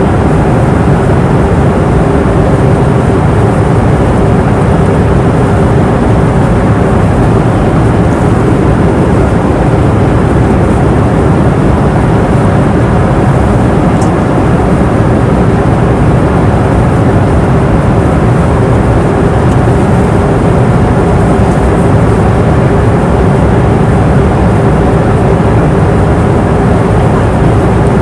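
Airplane cabin noise in flight: a steady, unbroken rushing noise, heaviest in the low range, with a faint steady hum running through it.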